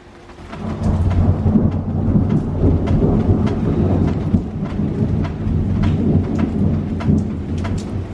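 Loud rolling thunder that breaks in about half a second in and rumbles on, easing slightly near the end, with rain pattering and sharp drips throughout.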